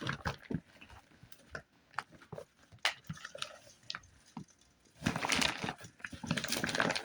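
A bag of clothes being moved and set in place: scattered soft knocks and clicks, then rustling for about two seconds starting about five seconds in.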